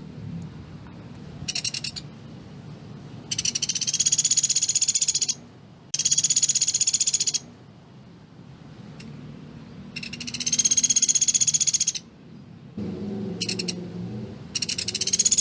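Velvet-fronted nuthatch (pelatuk beras) calling in rapid, machine-gun-like high trills. It gives a short burst, then three trills of about two seconds each with pauses between them, a brief burst near the end, and a final trill that runs past the end.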